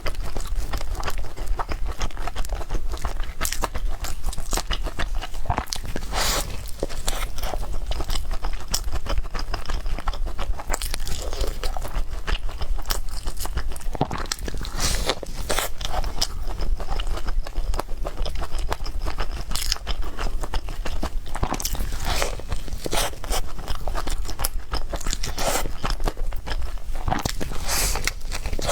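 Close-miked mukbang eating: biting and chewing, with frequent irregular crunches and mouth clicks over a steady low hum.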